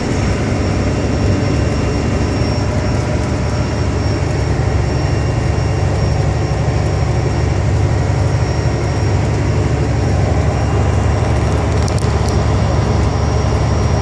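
Semi truck driving: a steady low rumble of engine and road noise, with a faint, thin high whine running through it.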